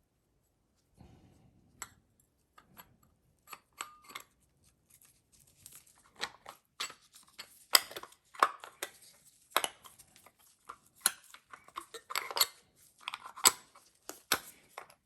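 Small metal starter parts and tools being handled and worked on a bench: irregular sharp clicks, light clinks and short scrapes, sparse at first and busier from about halfway through.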